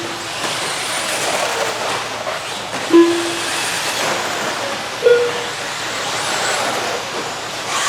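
Electric 1/10-scale RC stadium trucks racing on the track: a steady din of motor whine and tyre noise. Two short electronic beeps cut through it, about three seconds in and a higher-pitched one about five seconds in.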